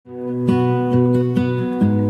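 Background music: acoustic guitar chords strummed in a steady rhythm, about two strums a second, fading in at the start.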